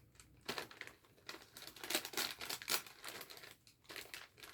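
Gift wrapping paper crinkling and rustling in irregular handfuls as a wrapped present is handled and unwrapped, loudest about halfway through.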